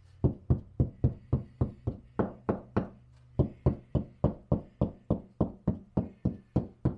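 Rapid knocking on a wall, about four knocks a second with a brief break about three seconds in: a knock test for a stud behind the wall covering, which gives no sign of a stud at this spot.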